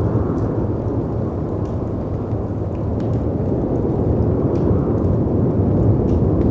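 Mixed storm ambience: dense wind and breaking sea waves, swelling a little in the second half, with faint crackles and pops from a fireplace scattered through it.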